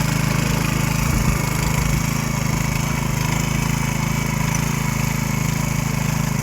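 Small single-cylinder engine of a vintage David Bradley garden tractor running steadily at an even speed.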